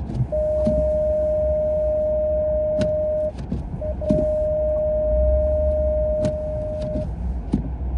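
Inside a running car, a steady single-pitch electronic warning tone sounds in two long stretches of about three seconds each over a low engine and road rumble, with a few scattered clicks.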